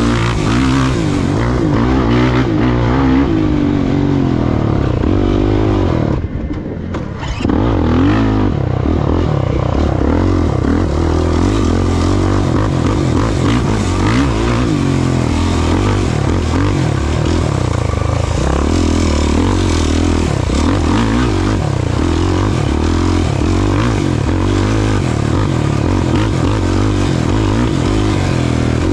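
Off-road race vehicle's engine running hard, its pitch rising and falling continually with throttle and gear changes. It backs off briefly about six seconds in, then picks up again.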